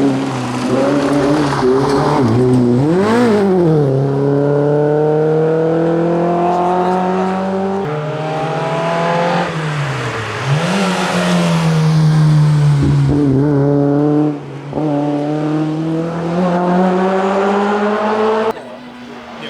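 Rally car engine at full throttle, its pitch climbing as it pulls through the gears, with sharp dips and revs at the shifts. It cuts off suddenly near the end.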